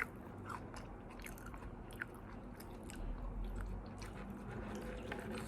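A person chewing and biting fast food close to the microphone, with small scattered mouth clicks.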